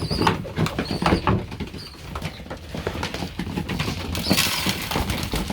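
Racing pigeons in a loft pecking and shuffling at their feed: scattered irregular taps and scuffles, with a brief flurry about four seconds in and a few faint high squeaks near the start.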